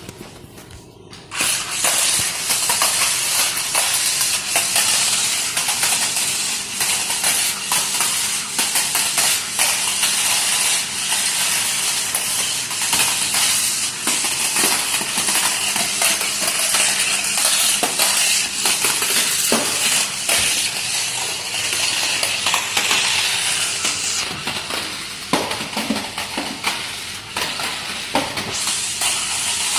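Toy RC stunt truck running: a steady hiss-like whir from its small electric motors and gears, with scattered clicks and knocks from wheels and rotating side arms hitting the ground as it flips and rolls over.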